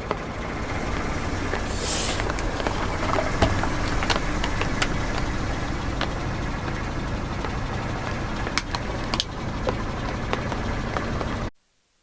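Car engine running slowly, with scattered sharp cracks and snaps as objects are crushed under its tyres. There is a brief hiss about two seconds in, and the sound cuts off abruptly near the end.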